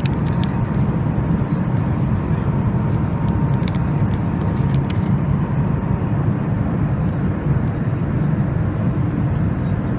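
Steady low rumble of a Boeing 737 MAX 8's cabin noise, engines and airflow, with a faint high tone through the first half.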